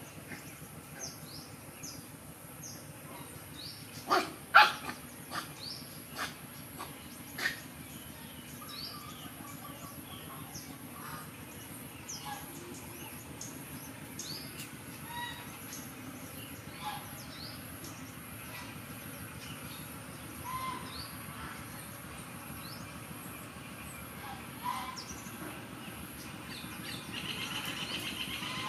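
Small birds chirping in short, scattered calls, with a few sharp knocks about four to seven seconds in; a rushing noise builds near the end.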